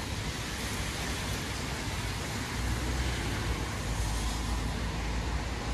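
Heavy rain falling in a steady hiss. A low rumble swells about two and a half seconds in and lasts a few seconds.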